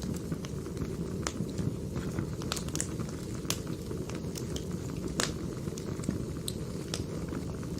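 Wood fire burning: irregular sharp crackles and pops over a steady low rumble, the loudest pop about five seconds in.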